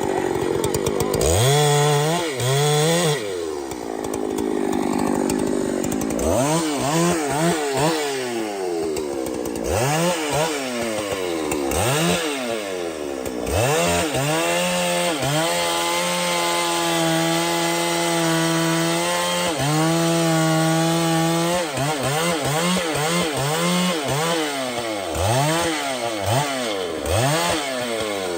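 Two-stroke chainsaw revved up and down over and over, its pitch rising and falling in quick swells. Twice in the middle it holds steady at high speed for a few seconds.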